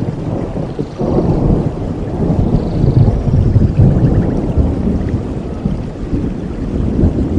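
Thunder rumbling, rolling in about a second in, loudest midway and slowly easing, over the steady hiss of rain.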